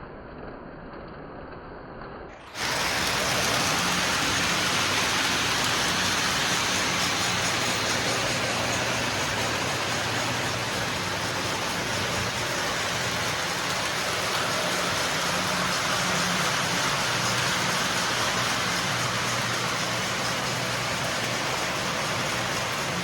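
Several Lionel O-gauge model trains running together on their track ovals: a steady clattering rumble of wheels and motors with a low hum. About two and a half seconds in, a quieter, muffled sound gives way abruptly to this louder running noise.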